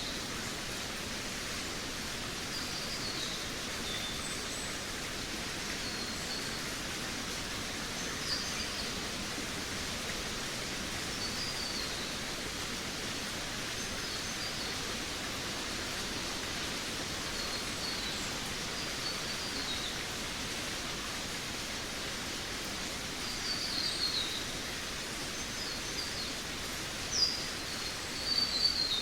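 Forest birds singing: short high chirps and down-slurred trills every second or two, over a steady hiss of background noise. Near the end the calls come thicker and louder.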